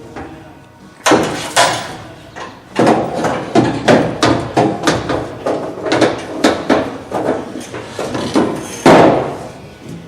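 Hammer blows: about twenty sharp strikes, two or three a second with short pauses, starting about a second in, the last one the loudest.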